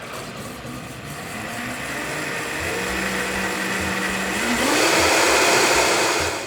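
Vitamix blender motor blending a smoothie, started on low, stepping up in speed about four and a half seconds in and getting louder, then stopping at the end.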